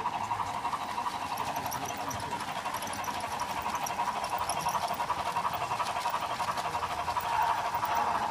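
Dallee Highline Steam sound card in a LEGO Reading Crusader model train playing steam-locomotive running sounds through its small onboard speaker as the train moves, steady and growing a little louder toward the end.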